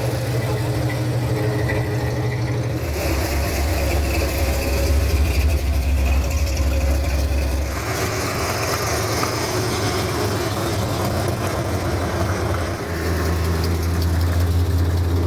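Car engine idling with a steady low hum that shifts in pitch a few times, as if different engines take over.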